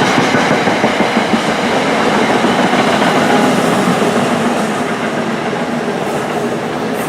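Electric passenger train passing close by on the Northeast Corridor, loud, easing off a little over the last two seconds.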